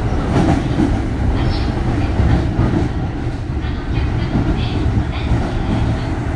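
Interior running sound of a Kintetsu 3200 series electric motor car: a steady rumble of wheels and running gear on the rails, with a few faint clicks from the track.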